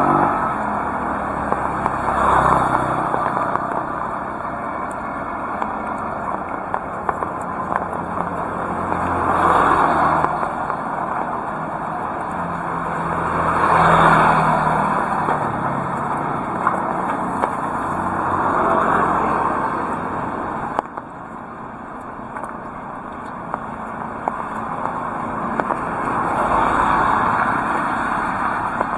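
Heavy rain hissing steadily, with vehicles passing by on the wet road: the tyre hiss swells and fades about five times. The overall sound drops suddenly about two-thirds of the way through.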